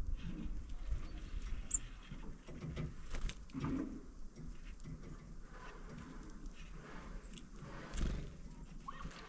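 Tufted titmouse at a window feeder: irregular light taps and knocks, with a brief high chirp about two seconds in and a short rising note near the end.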